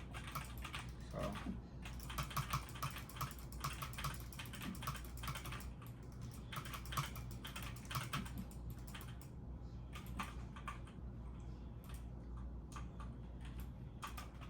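Typing on a computer keyboard: quick, irregular runs of keystrokes with short pauses between them, over a low steady hum.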